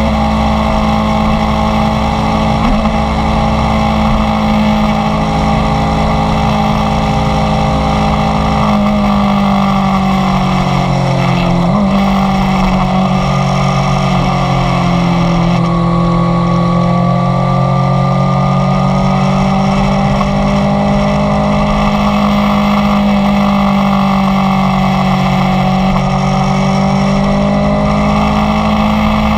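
Inline-four sport motorcycle engine running at fairly steady cruising revs, its pitch sagging gently and climbing back once or twice without any hard revving.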